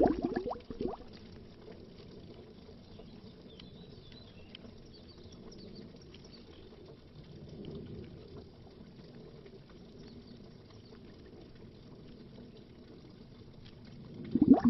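Underwater bubbling. Loud gurgling bubbles die away in the first second, then comes a long quiet stretch of faint bubbling with a small swell about halfway. Loud bubbling starts again near the end.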